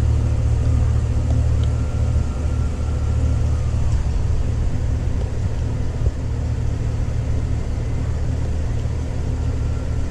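A 6.2-litre V8 idling steadily, a low even rumble.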